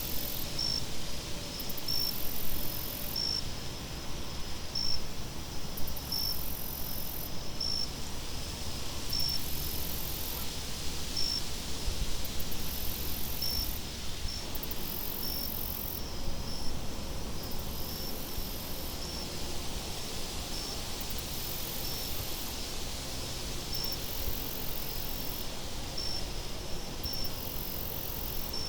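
Crickets chirping in a steady rhythm, a short high chirp about once a second, with longer high buzzing trills coming and going, over a steady wind noise.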